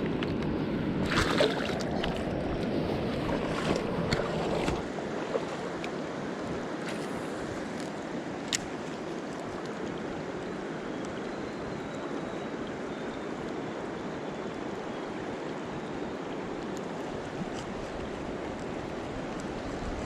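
River water rushing steadily, with a louder spell of rumble and a few knocks in the first five seconds.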